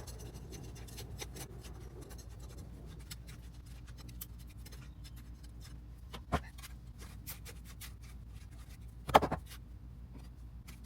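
Light scratching and scraping with scattered small clicks over a steady low hum, broken by a sharp knock about six seconds in and a louder one about nine seconds in.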